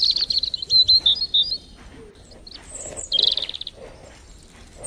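A small bird chirping in quick high phrases: a run of chirps during the first second and a half, then a short rapid trill about three seconds in. Faint rustling of tomato plants being handled lies beneath.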